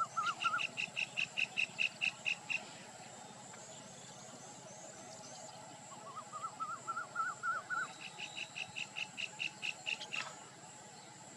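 A bird calling in two bouts. Each bout starts with a few quick notes that climb in pitch and runs into a string of about a dozen sharp notes at roughly five a second; the second bout comes about six seconds in.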